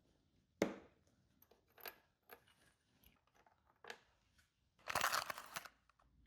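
Workshop handling noises: a sharp knock, a few light clicks, then about a second of crinkling, crunching noise near the end.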